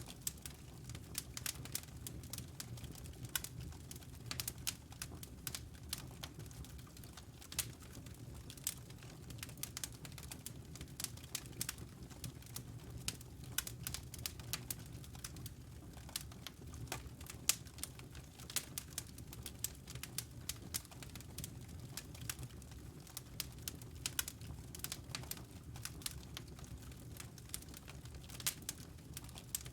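Wood fire burning in a fireplace, crackling with many irregular sharp pops and snaps over a low, steady rumble of the flames.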